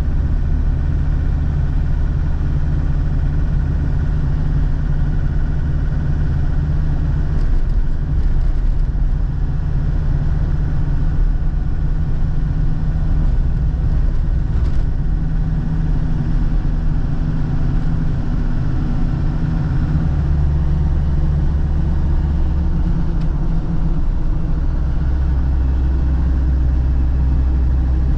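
Land Rover Defender TD5's five-cylinder turbodiesel engine running under way, a steady rumble whose note changes a few times with speed and load.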